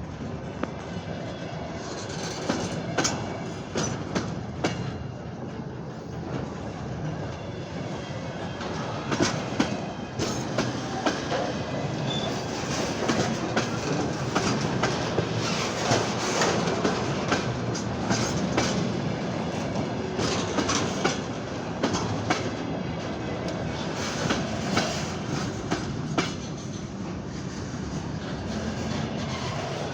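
Freight train wagons rolling past, wheels clicking over rail joints with a steady rumble.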